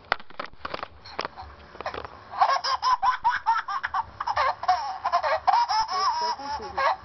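Baby-laughter ringtone playing from a cell phone: a run of rapid, high giggles that starts about two and a half seconds in, after a few sharp taps.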